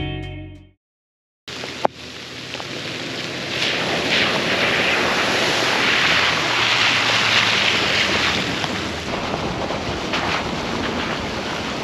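Background guitar music fades out, and after a moment of silence a steady rushing of wind and rain begins, with wind buffeting the microphone and a single sharp click just after it starts.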